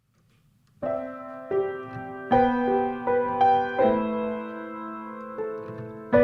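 Piano music: slow chords and melody notes, a new one struck roughly every second, each fading before the next. It starts about a second in.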